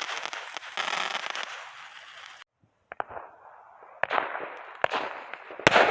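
Aerial fireworks: a dense crackling for about two and a half seconds, then after a short break a few separate sharp bangs, the loudest near the end.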